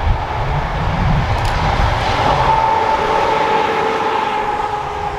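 Electric train passing on the rails: a low rumble, then from about two seconds in a steady high whine that sinks slowly in pitch.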